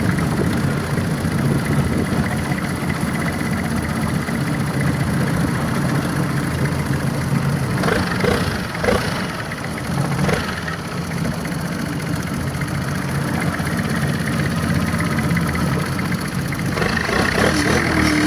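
Boat engine running steadily, a low, even hum.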